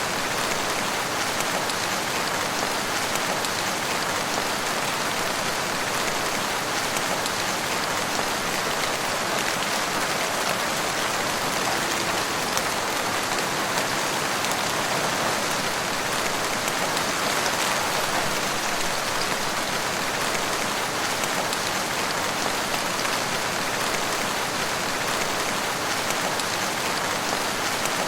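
Steady rain falling in woodland, an even hiss of many drops with no change in strength.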